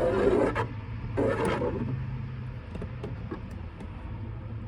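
Two short scraping strokes of a hand tool across window tint film on glass, about a second apart, over a steady low hum.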